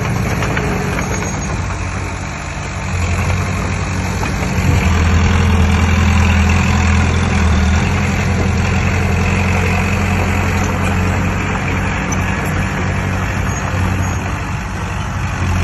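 Heavy diesel engine of earthmoving machinery running, growing louder about three to five seconds in and then holding steady.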